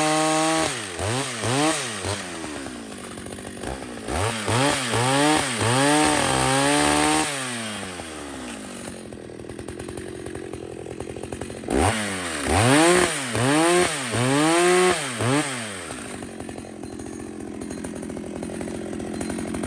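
Two-stroke chainsaw blipped repeatedly between idle and high revs: a run of quick throttle bursts, a drop to a low idle, then another run of about four bursts before settling back to idle.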